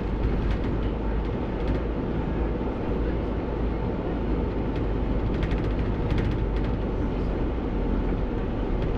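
Steady low rumble of a bus on the move, engine and road noise heard from inside the driver's cab, with a few faint clicks now and then.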